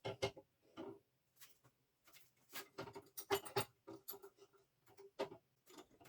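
Irregular light clicks and knocks of hands handling small hard objects, busiest from about two to four seconds in, some with a brief ring.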